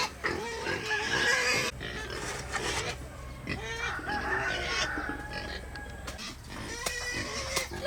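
Hungry pigs squealing loudly and repeatedly, calling to be fed.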